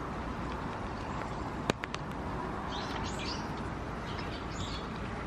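Birds chirping in two short bouts over a steady background hum, with a sharp click a little under two seconds in.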